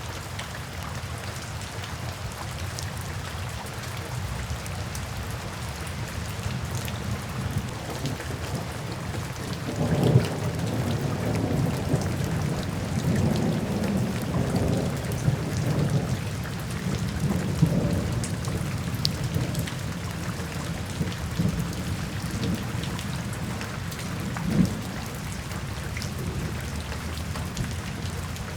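Steady rain falling, with a low roll of thunder that builds about ten seconds in, swells in several louder peaks, and fades out toward the end.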